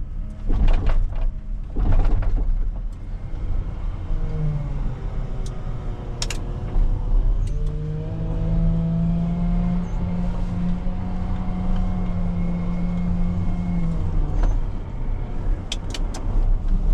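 A heavy diesel machine working while gravel is loaded. Its engine rumbles throughout and rises to a higher, steady pitch for several seconds in the middle. Sharp knocks and rattles come near the start and again near the end.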